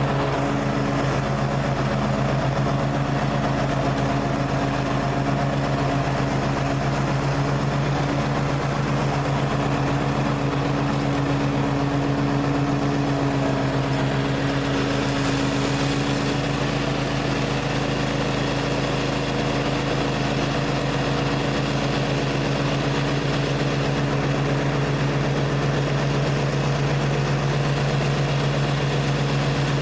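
Gravely ZTX 42 zero-turn mower's engine running at a steady speed.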